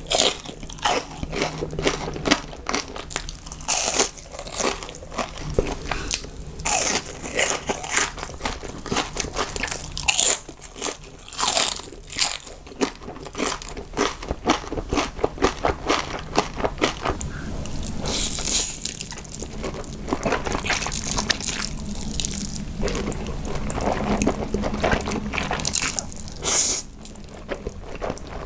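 A person eating close to a sensitive microphone: crunching bites and chewing, heard as a long run of crisp clicks that come fastest in the middle.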